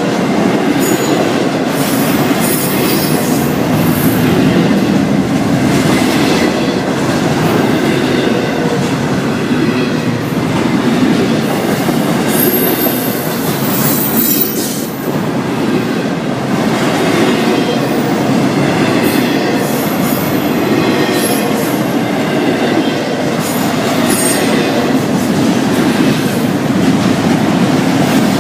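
Florida East Coast Railway freight cars rolling past at close range: a steady, loud rumble with the wheels clacking over the rail and short high-pitched wheel squeals now and then.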